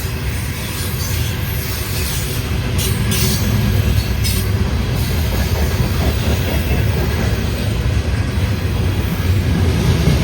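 Loaded coal train rolling past: a steady rumble of its freight cars' wheels on the rails. Short bursts of high-pitched noise come about three and four and a half seconds in.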